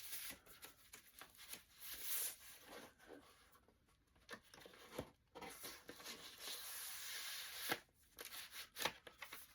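Vinyl record packaging being handled: soft rustling and sliding of sleeves, with a few sharp clicks.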